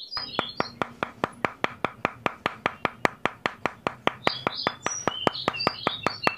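Small hammer tapping thin wooden sticks, even light taps about five a second, with bird chirps over the top early on and again past the middle.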